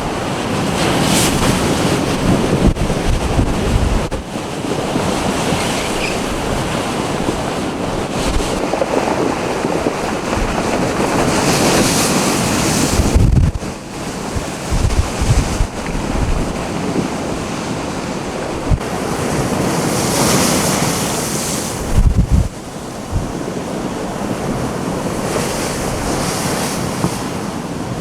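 Heavy storm surf from a nor'easter breaking in waves, swelling about three times, with gusty wind rumbling on the microphone.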